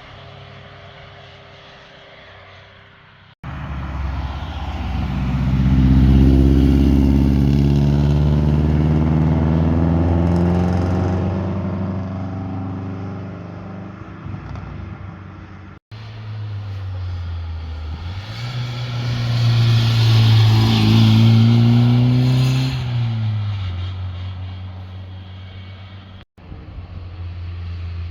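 Sports cars driving past one after another on a mountain road, engines revving hard under acceleration as each approaches and passes, the exhaust note swelling and then fading or dropping in pitch. The sound cuts abruptly between passes.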